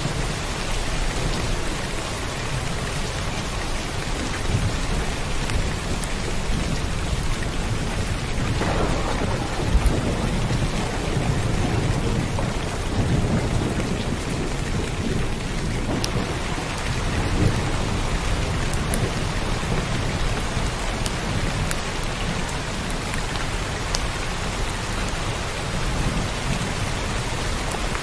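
Heavy rain falling steadily, with a low rumble of thunder swelling through the middle.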